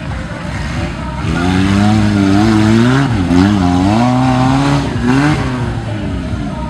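Off-road 4x4 engine revving: it holds a fairly steady pitch for a couple of seconds, then drops and climbs again several times as the throttle is worked, over a constant background noise.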